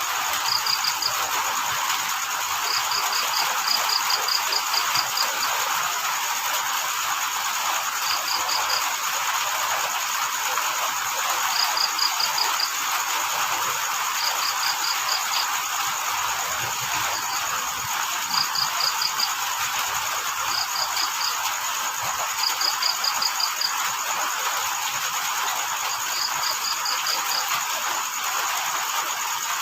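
A cricket chirping in short trains of several quick pulses, repeated every second or two, over a steady hiss of rain.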